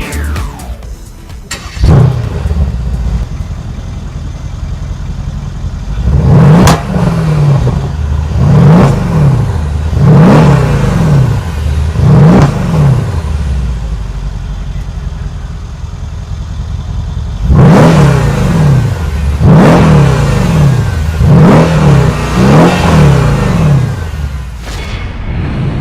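Mercedes-AMG E63 S 5.5-litre twin-turbo V8 starting with a loud flare about two seconds in, then idling and being free-revved in sharp blips through the exhaust: four spaced about two seconds apart, then a quicker run of several more near the end.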